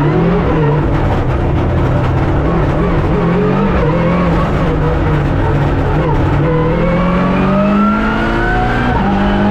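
Rally car engine heard from inside the cockpit at racing speed, the pitch rising and falling with the throttle. From about six and a half seconds in it pulls steadily higher under acceleration, then drops sharply near the end as the revs fall.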